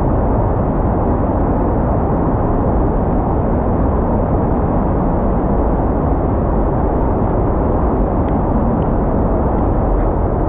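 Steady, loud roar of falling water from a waterfall, with a few faint ticks near the end.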